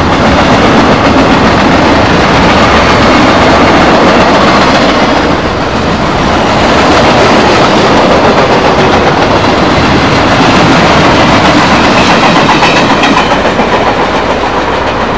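A train going by, a loud, steady noise of the moving cars on the track.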